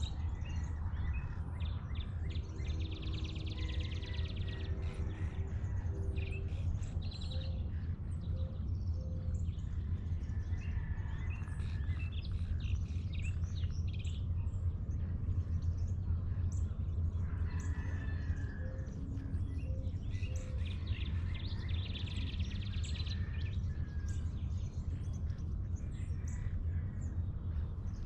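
Dawn chorus of many birds chirping and calling over a steady low rumble, with a rapid high trill about three seconds in and again about twenty-two seconds in.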